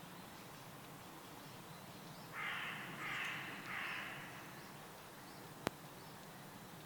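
A bird gives three harsh, raspy calls in quick succession about halfway through, over faint distant chirping; a single sharp click follows a second or so later.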